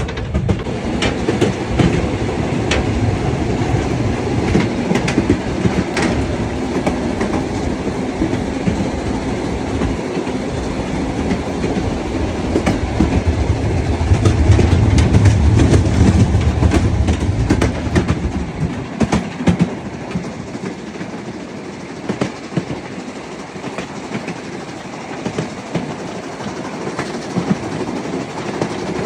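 Harz narrow-gauge train running on the Brocken line, with a low rumble and wheels clacking over the rails. It grows louder a little past the middle, then eases off.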